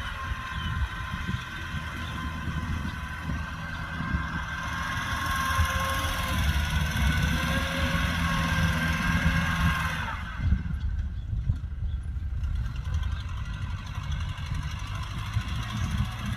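Kubota tractor's diesel engine running steadily, with a high mechanical whine over it that grows louder from about four seconds in and cuts off suddenly about ten seconds in, leaving the lower engine note.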